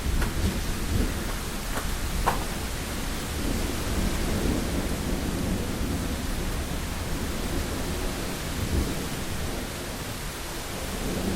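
Heavy rain on a window pane with a low, rolling thunder rumble underneath. A few sharp drop ticks stand out in the first couple of seconds.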